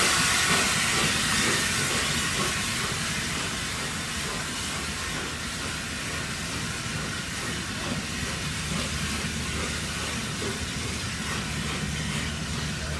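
Steam-hauled train departing: the hiss of steam over the rumble of the train on the rails, fading over the first few seconds and then holding steady.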